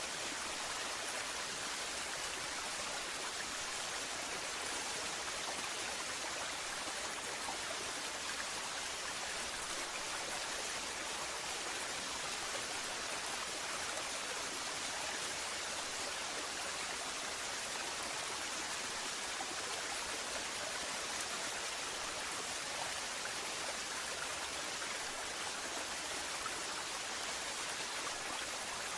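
Waterfall: a steady rush of falling water that stays even throughout, with no breaks or distinct splashes.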